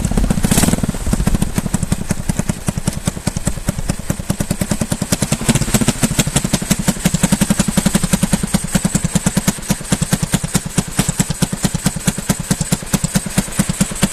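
Wooden motorcycle's engine running cold, with a rapid, even beat of firing pulses that grows more regular after the first few seconds.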